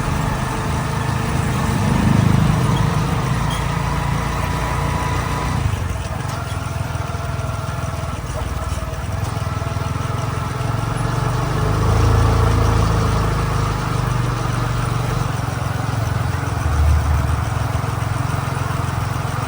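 A motorcycle taxi's engine running as it rides along, under a heavy, steady low rumble that swells now and then.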